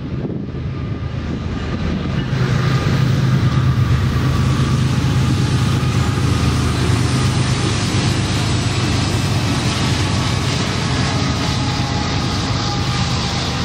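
Norfolk Southern freight train passing close by: the diesel locomotives' engines drone, louder as they come past about two seconds in, then the steady rumble of covered hopper cars rolling along the track.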